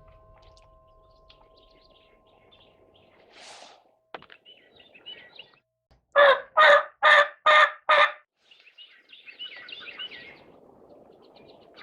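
A series of five loud, raspy turkey yelps, evenly spaced about half a second apart, with faint songbird chirping around them.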